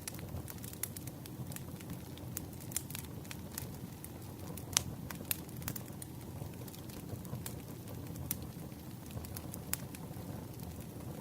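Wood campfire burning: a steady low rush of flames with scattered sharp crackles and pops, one louder pop a little before the middle.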